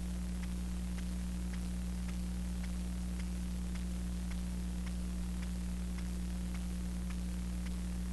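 Steady electrical mains hum and hiss from the recording setup, with faint regular ticks about twice a second.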